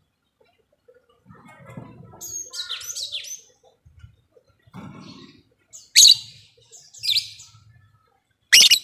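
Lovebird calling: a run of rapid chattering in the first few seconds, then three loud, shrill calls about a second apart in the second half.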